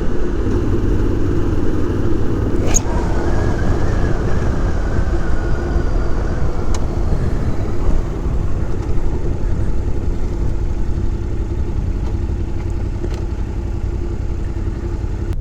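Yamaha Ténéré 700's parallel-twin engine running at a steady pace while riding on dirt, with a few sharp ticks of stones or gravel striking the bike. The engine note eases a little toward the end.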